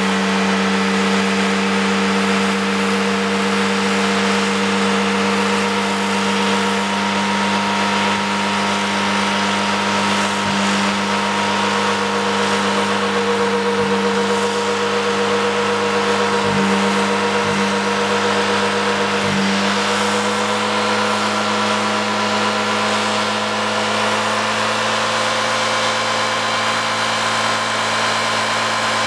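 Mazda 626 engine held at high, steady revs while its driven wheels spin in a burnout, with a few brief dips in pitch a little past halfway; the car is being run hard on purpose to destroy it.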